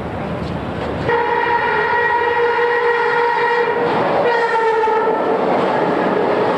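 Long Island Rail Road electric train sounds its horn twice, a long blast and then a shorter one, and then rushes past close by.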